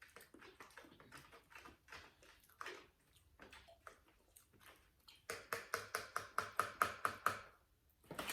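Close-up eating sounds from a seafood boil: scattered wet chewing clicks and lip smacks. About five seconds in comes a quicker run of sharp smacking clicks lasting a couple of seconds.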